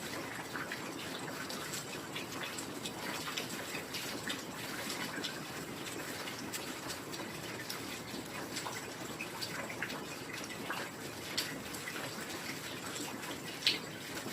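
Heavy rain falling steadily, a dense hiss with many individual drops ticking and splashing through it, and one sharper drop hit near the end.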